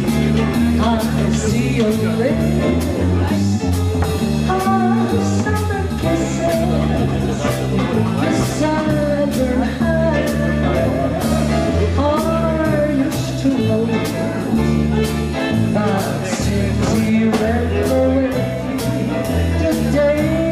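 Small jazz band playing: a bass walks in steady, evenly changing notes under a bending melody line, with drum strokes keeping an even beat.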